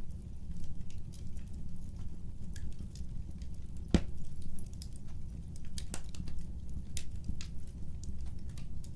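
Wood fire burning, a low steady rumble with scattered crackles and pops; one loud sharp crack about four seconds in and another about six seconds in.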